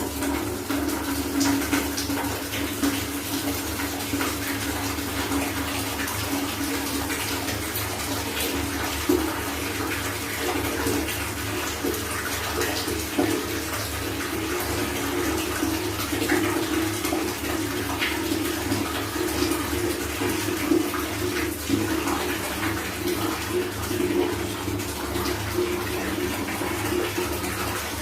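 Water running steadily from a tap into a filling container for hand-washing clothes, with small scattered clicks and knocks over it.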